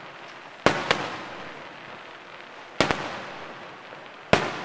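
Aerial firework shells bursting overhead: a pair of sharp bangs a little under a second in, another pair near three seconds, and a single bang shortly before the end, each trailing off over a second or so.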